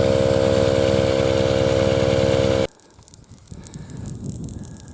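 Small portable air compressor (tyre inflator) running with a fast, steady pulsing hum as it pumps up a slowly leaking motorcycle tyre. It cuts off suddenly about two and a half seconds in.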